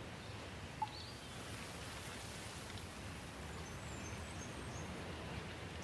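Steady rain falling, with a few faint high bird chirps over it and one short sharp note a little under a second in.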